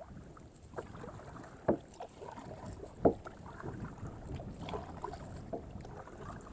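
Kayak being paddled: paddle strokes through the water with a few short knocks, two of them sharp and loud about a second and a half apart, as the paddle strikes the kayak.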